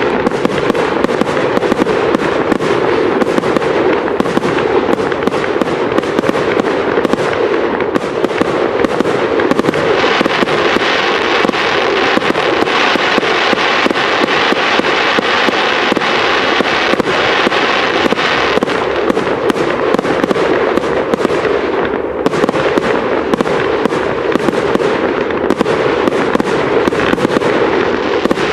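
Aerial firework shells bursting in quick succession, a continuous barrage of bangs and crackling. A denser, higher crackle joins about ten seconds in and drops away about eight seconds later.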